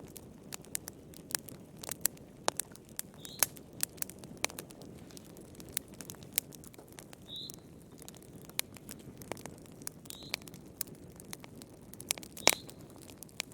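Wood fire crackling in a fireplace: irregular sharp pops and snaps over a soft low rumble of burning, with the loudest pop about twelve and a half seconds in. A faint, short, high squeak comes every few seconds.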